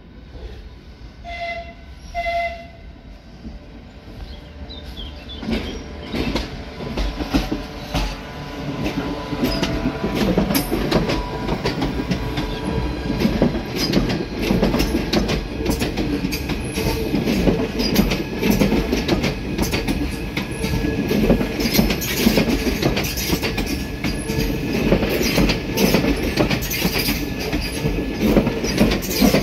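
Two short horn toots, then a Southeastern Class 395 Javelin electric train running past on curved track, its wheels clicking over rail joints and squealing, growing louder as it comes alongside.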